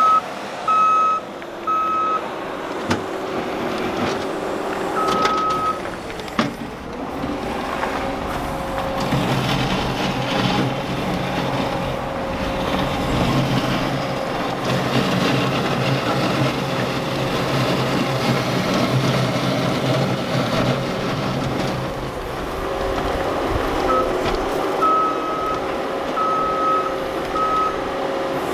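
Compact track loader's diesel engine running steadily, with its backup alarm beeping as it reverses: a few beeps at the start and a run of beeps again near the end.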